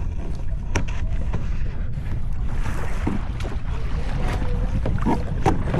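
Wind rumbling on the microphone aboard a sit-on-top kayak, with water splashing and a few small knocks and clicks scattered through.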